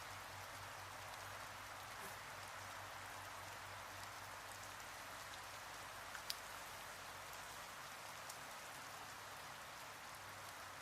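A steady, even hiss with a faint low hum beneath it, and a single sharp click about six seconds in.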